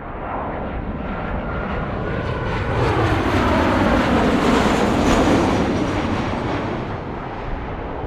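Jet airliner passing close by. Its engine noise swells to a peak about five seconds in and then fades, with whining tones sliding down in pitch as it goes past.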